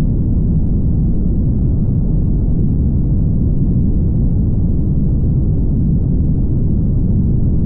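Car driving at highway speed: a steady, low rumble of road and tyre noise that holds even throughout.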